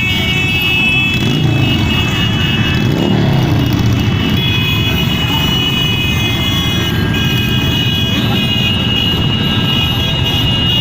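A group of motorcycles running together in a parade, a dense engine rumble with revs rising and falling around the first few seconds. Several steady high tones sound above it throughout.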